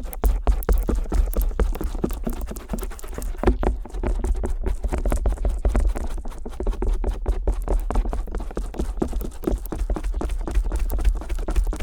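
Stainless-steel ear pick scraping and tapping on the silicone outer ear of a binaural microphone, a dense run of rapid close-up clicks and scratches with a low handling rumble underneath.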